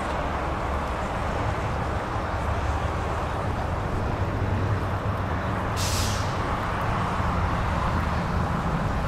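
Brilliance H530's engine idling steadily, with a brief hiss about six seconds in.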